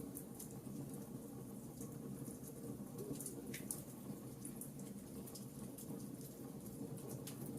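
Wood fire burning in a fireplace: scattered small crackles and pops over a steady low rumble of flames.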